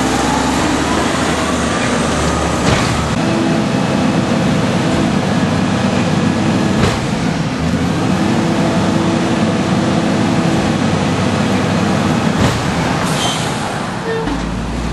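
Garbage truck working up close: a heavy diesel engine running loudly under a steady hum, with three sharp knocks spaced several seconds apart.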